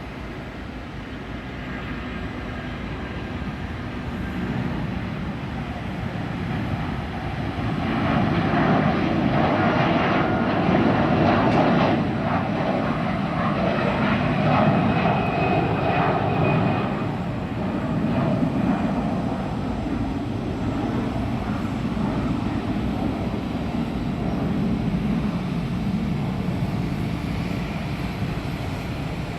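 Airbus A330 jet engines running. The sound swells to its loudest from about eight to seventeen seconds in, then eases off a little.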